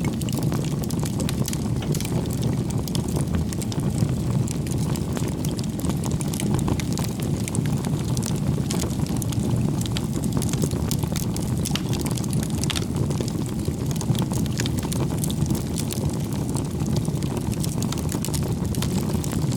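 Wood fire burning: a steady low rush of flames with frequent small crackles and pops.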